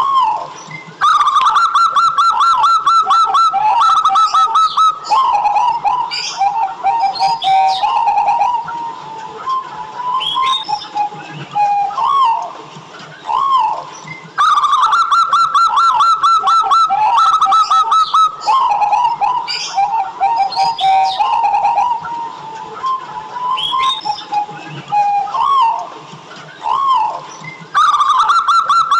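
Zebra dove (perkutut) cooing in long phrases of rapid, trilled notes that step down in pitch partway through, each phrase coming back about every 13 seconds. Higher chirps run over it.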